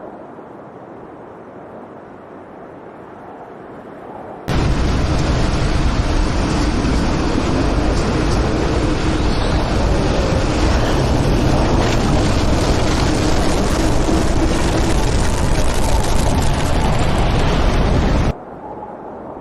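Loud, steady rushing noise of a tornado sound effect, switched on suddenly about four and a half seconds in and cut off abruptly near the end; before it, a quieter steady noise.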